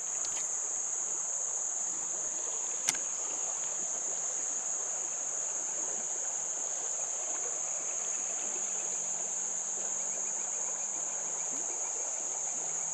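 Steady, high-pitched insect chorus, with a fainter even hiss beneath it and a single sharp click about three seconds in.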